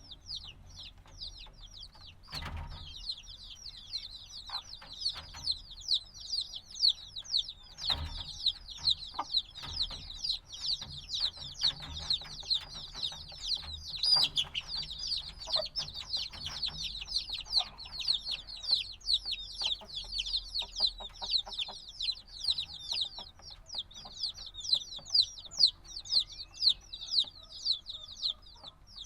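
A brood of newly hatched chicks peeping nonstop, many short high downward-sliding chirps overlapping into a dense chorus, with a couple of faint knocks.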